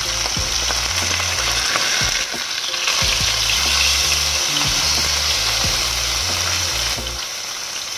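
Salmon steaks sizzling steadily as they fry in olive oil in a nonstick pan, with a few clicks of metal tongs turning the fillets. A low bass line of background music runs underneath.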